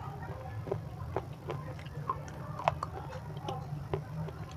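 Close-miked chewing of a crunchy white chalk-like chunk, the 'crunchy stone': sharp irregular crunches and clicks a few times a second over a low steady hum.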